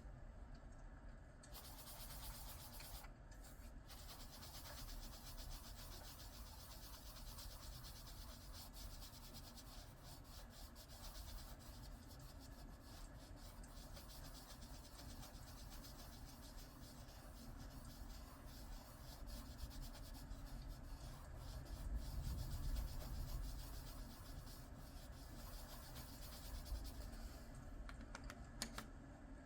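Coloured pencil rubbing on paper in quick back-and-forth shading strokes, a quiet continuous scratchy hiss with a short pause near the start.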